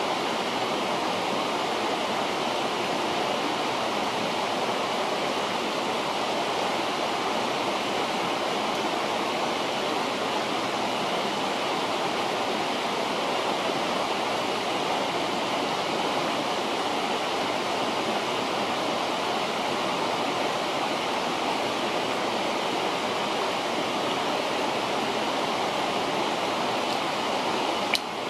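A river rushing steadily, with one sharp click near the end.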